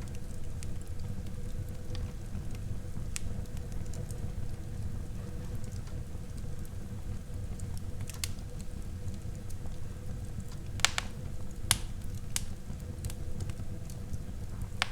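Wood fire burning in a fireplace: a steady low rumble of flames with scattered sharp pops and crackles, two louder pops a little before the end.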